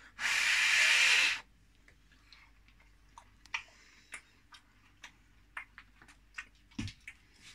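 A loud rush of breath lasting about a second, then a person chewing a homemade custard cream biscuit, with small irregular crunches and mouth clicks.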